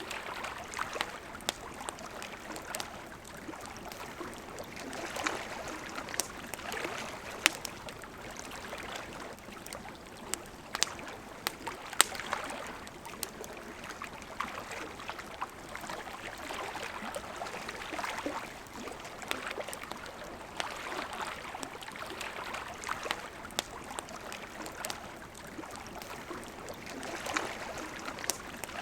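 Wood campfire crackling with frequent sharp pops over the steady rush of a flowing river. Two louder pops stand out, one a third of the way in and one near the middle.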